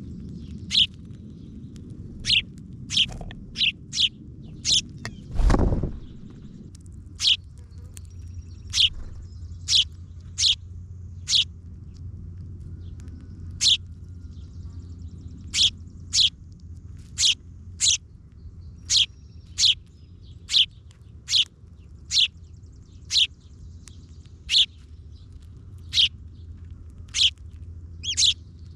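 A bird repeating short, sharp, high chirps, each sweeping down in pitch, about one a second, over a low steady background rumble. There is a brief dull thud about five and a half seconds in.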